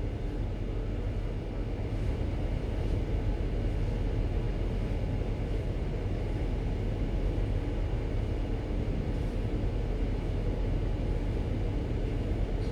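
Steady low rumble of a ship's engines and machinery, heard on board.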